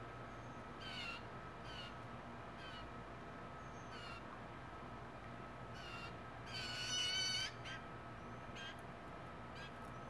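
Wild birds calling: several short, downward-slurred notes spaced a second or so apart, then a louder harsh, rasping call about a second long about two-thirds of the way in.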